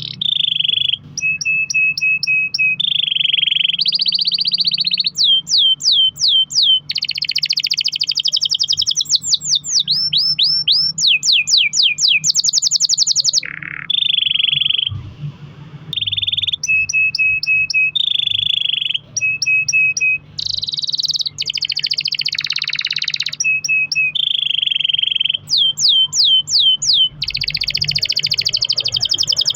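Domestic canary singing a long, unbroken rolling song: rapid trills, a held whistled note and strings of fast falling sweeps, each phrase repeated for a second or two before switching to the next. A steady low hum runs underneath.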